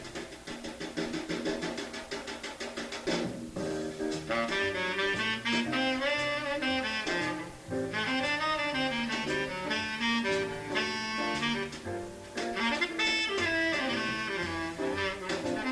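Jazz: a tenor saxophone plays fast improvised lines over double bass and drums. A quick run of drum strokes comes in the first three seconds.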